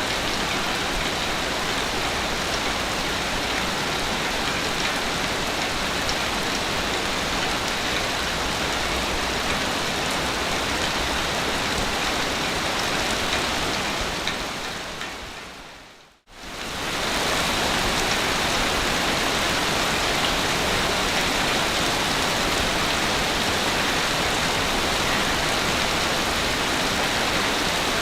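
Steady, even rush of water noise without clear wave swells. About two-thirds of the way through it fades away to near silence, then cuts back in suddenly at full level, like a loop joint in the recording.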